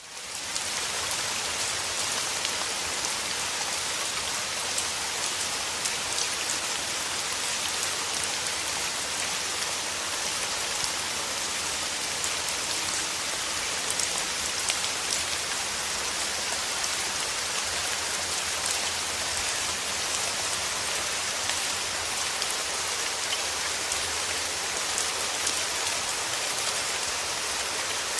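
Steady rain falling: a dense, even hiss of drops with scattered individual drop ticks, fading in at the very start.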